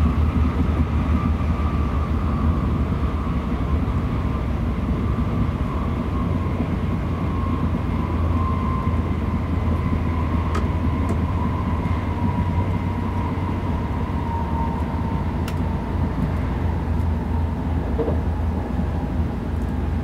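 Tokaido Shinkansen bullet train running at speed, heard from inside the passenger cabin: a steady low rumble with a thin whine that falls slowly in pitch.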